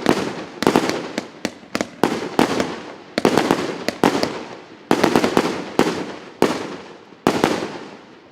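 Consumer firework cake (battery, РС894 "Юг большой страны") firing shot after shot, about one or two a second, each sharp report trailing off into a fading rush of noise. The shots thin out and grow quieter near the end.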